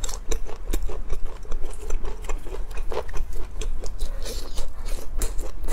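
Close-miked chewing and biting of spicy grilled skewered meat: dense, irregular wet clicks and crunches from the mouth, over a steady low hum.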